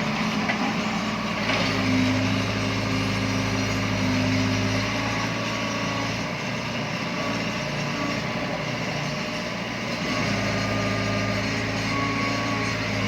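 Small electric motors and gearboxes of remote-control toy trucks running with a steady whirring hum, its low tone dropping away in the middle and coming back near the end.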